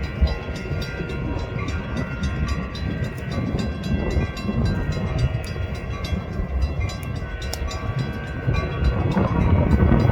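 Train passing close by: a steady low rumble of the wheels on the rails, with rapid clicking from the rail joints, growing louder near the end.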